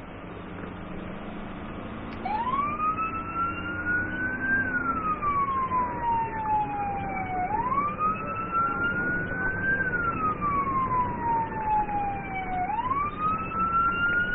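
Police car siren switched on about two seconds in, going in a slow wail that rises quickly and falls off slowly, about every five seconds, over steady road and engine noise. It marks the start of an emergency run as the officer begins a pursuit.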